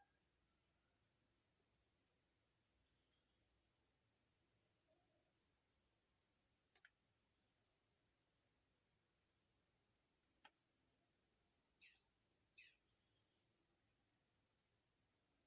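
Steady high-pitched insect chorus shrilling without a break. A few short falling chirps sound over it in the second half, with two faint ticks.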